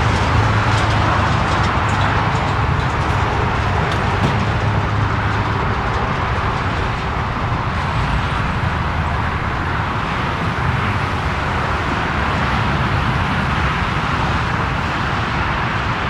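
Airbus A340-300 with its four CFM56 turbofan engines running, a loud, steady jet rumble with a low hum underneath that eases off slightly over the seconds.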